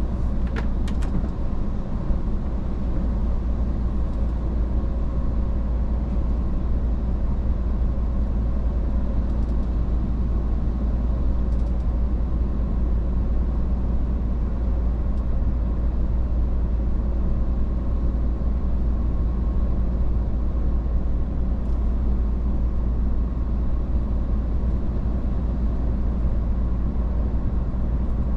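Iveco S-Way truck on the move: a steady low engine and road rumble with a faint steady hum over it, and a few light clicks about a second in.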